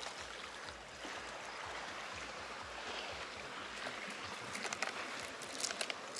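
Small sea waves washing on the shore, a steady watery hiss with a low rumble under it, and a few sharp clicks in the last couple of seconds.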